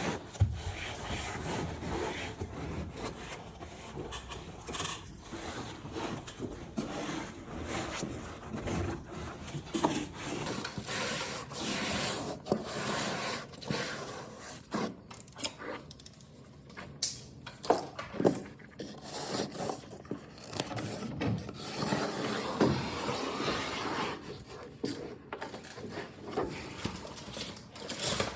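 Ceiling wallpaper being smoothed and pressed into place: repeated, irregular rubbing and scraping strokes over the paper, with a few sharper taps.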